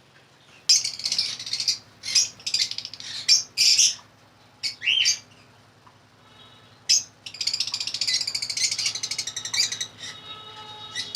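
Caged lovebirds chirping in short, shrill bursts, then a dense run of rapid chattering calls from about seven seconds in.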